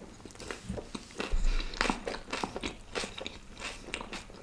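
A person chewing a mouthful of butter rumali roti close to the microphone: wet mouth clicks and smacks, busiest about a second and a half in.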